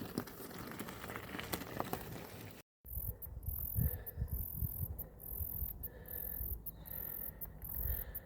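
A steady, very high-pitched insect chorus with short breaks, which begins after a cut about a third of the way in, over low irregular rumbling thumps.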